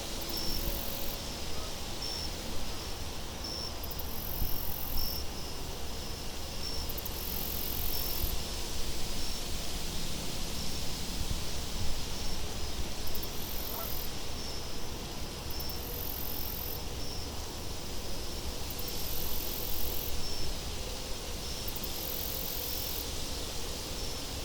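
Insects, crickets among them, chirping in evenly repeating pulses over a steady low rumble of wind.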